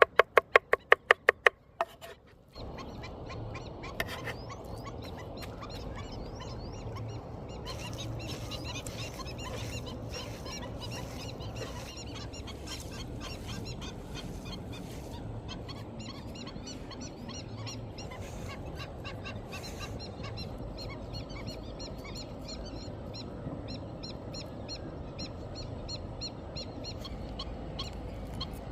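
A quick run of sharp knocks, about seven a second, for the first two seconds. Then a steady low background noise with many short bird calls and chirps over it.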